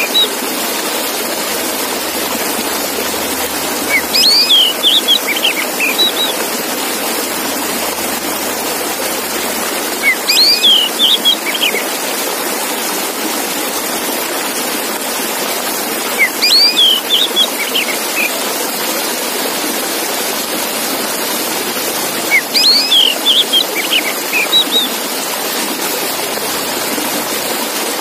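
Male Oriental magpie-robin (kacer) song: a short phrase of quick, sweeping whistled notes, repeated about every six seconds, four times over a steady hiss.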